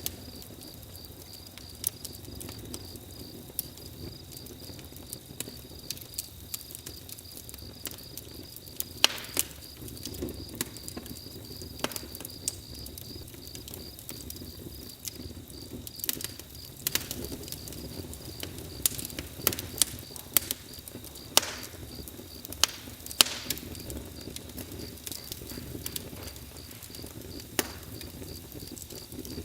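Campfire crackling, with irregular pops and snaps over a low steady rush of burning wood, and crickets chirping steadily in a high, finely pulsed trill underneath.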